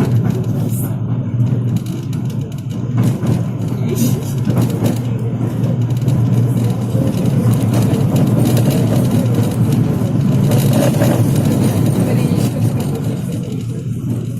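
Tram running over crooked, uneven rails: a steady low rumble with irregular knocks and clatter from the wheels on the track, heard inside the car.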